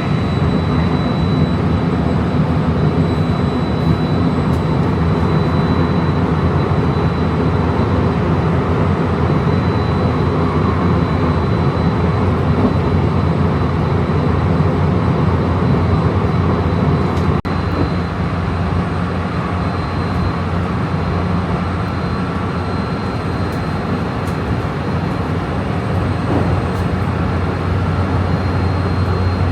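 Steady running noise of a JR passenger train in motion, heard from on board: a continuous low rumble of wheels and air, with a faint steady high whine. It dips briefly about 17 seconds in.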